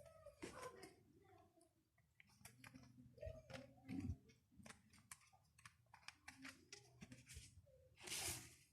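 Faint scattered clicks and light taps of small desk items being handled, with a brief rustle near the end.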